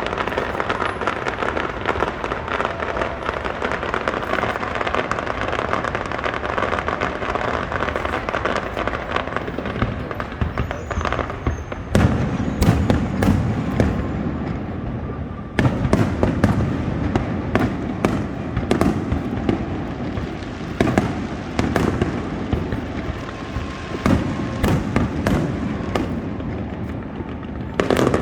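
Fireworks display: a dense, continuous crackle for the first twelve seconds or so, then a series of loud booms every two to three seconds with crackling between them.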